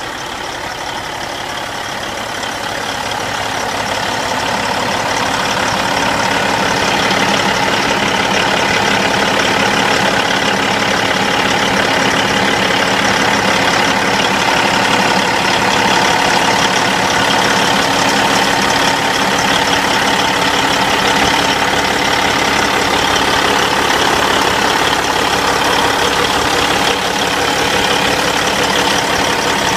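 Peterbilt 388 highway tractor's Cat 550-horsepower diesel engine idling steadily. It grows louder over the first several seconds, then holds steady.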